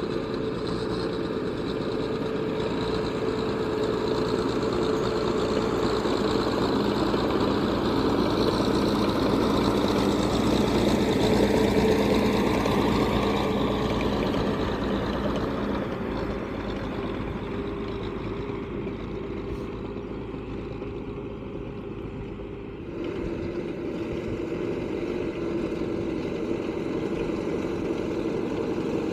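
T-74 crawler tractor's diesel engine running steadily while plowing. It grows louder toward a peak about twelve seconds in, then eases off.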